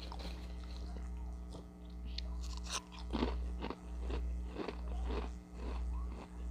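Close-up crunching and chewing of crunchy chips, with the loudest crunches about three seconds in, then a steady chewing rhythm of a little more than one chew a second. A steady low hum sits underneath.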